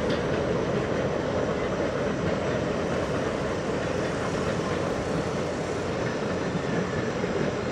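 Passenger train rolling across a long stone arch railroad bridge: a steady rumble of wheels on rail that eases slightly as the cars move away.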